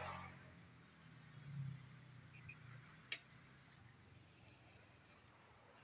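Quiet outdoor ambience with faint, scattered high bird chirps and a single sharp click about three seconds in.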